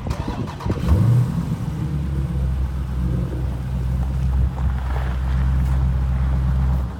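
Hemi V8 engine starting up: a ragged catch, a quick rev flare about a second in, then running steadily at a low, even pitch until the sound cuts off abruptly near the end.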